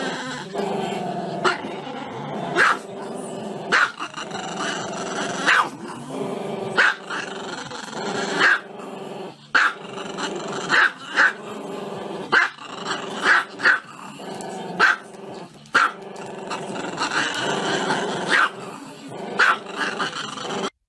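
A small black-and-tan long-haired dog howling with its head raised. Its drawn-out wavering cries are broken every second or two by sharp, loud barks.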